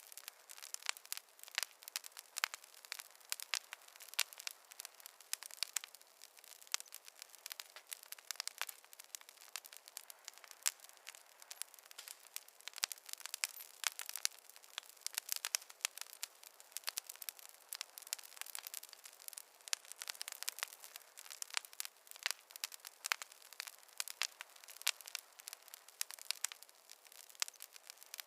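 Wood fire crackling: a continuous run of irregular sharp pops and snaps, with no low rumble beneath them.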